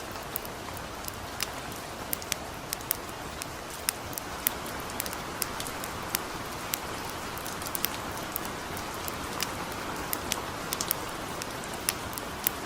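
Steady light rain hiss mixed with a wood campfire crackling, with many irregular sharp pops and snaps over the rain.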